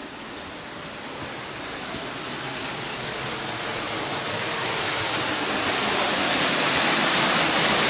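Steady rush of a waterfall, growing steadily louder.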